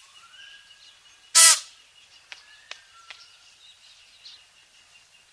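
Outdoor birdsong: scattered short chirps and whistles, with one short, loud, harsh call about a second and a half in.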